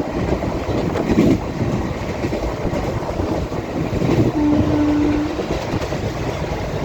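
Purushottam Express passenger train running at speed: a steady rumble of wheels on the rails with some clickety-clack. About four and a half seconds in, a brief steady tone sounds for about a second.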